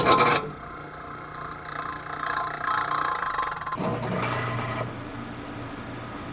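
1937 Frigidaire refrigerator compressor starting up dry after losing all its oil: a sudden clunk at switch-on, then squeaking and rattling for about three seconds before it settles into a steadier low hum. The squeak and rattle are the sign of a compressor that ran without oil, which the owner feared was damaged beyond repair.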